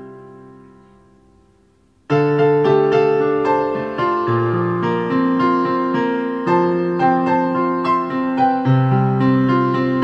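Background piano music: a held chord fades away over the first two seconds, then the piece starts again abruptly with a steady run of struck notes.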